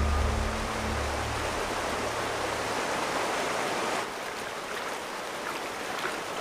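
Steady rushing noise of flowing water, like a stream running over rocks. It drops a little in level about four seconds in. A low music drone fades out in the first second.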